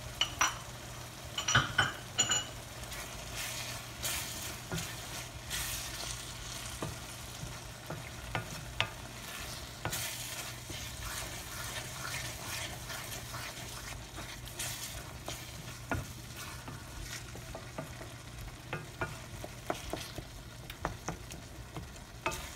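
Chicken mince with brain sizzling as it is fried dry in a steel karahi, stirred and scraped with a wooden spatula. Frequent clicks and knocks of the spatula on the pan run through it, loudest in the first couple of seconds.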